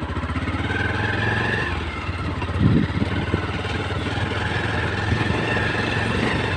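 Motorcycle engine running steadily while riding, a fast even pulsing hum.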